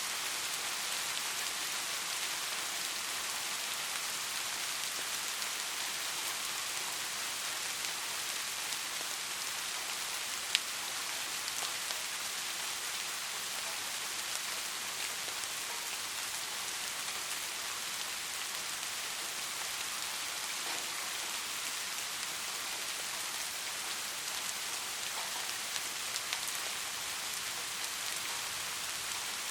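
Steady rainfall pattering, an even hiss of many drops with scattered individual drip ticks, one sharper drop about ten seconds in.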